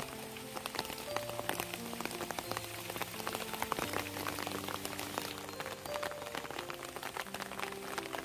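Steady rain, with many small drops pattering irregularly. It sounds over background music of soft, slowly changing held notes.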